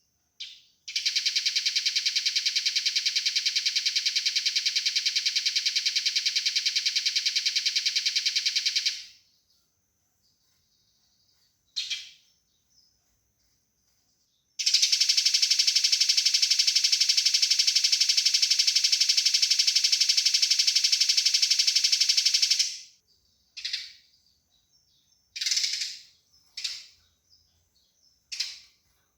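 Eurasian tree sparrow's fighting chatter: two long runs of rapid, tightly packed chirps, each about eight seconds, with short single calls between and after them.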